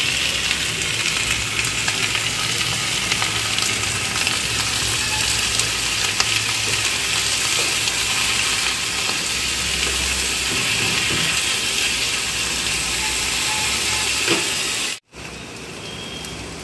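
Thin-cut potato sticks sizzling in hot oil with fried onions in a non-stick wok, turned with a wooden spatula: a steady frying hiss. About fifteen seconds in it cuts off abruptly and returns fainter.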